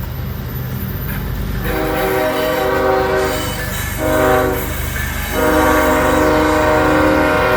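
Diesel freight locomotive's multi-tone air horn sounding a long blast, a short blast, then another long blast that is still going at the end, over the steady low rumble of the train.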